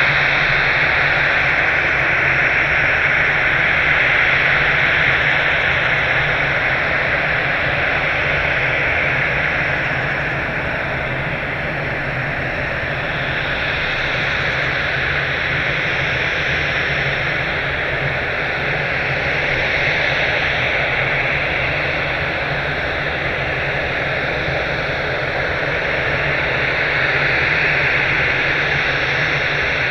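Jet engines of an Airbus twin-engine airliner running, a steady loud rushing noise with a low hum beneath it that swells and eases slightly every several seconds.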